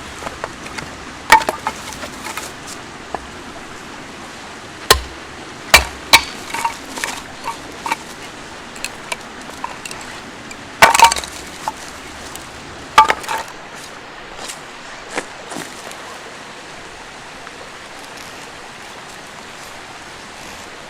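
Scattered sharp knocks and splintering cracks of wood, with a few clinks, over the steady rush of a river. The knocks stop about 16 seconds in, leaving only the water.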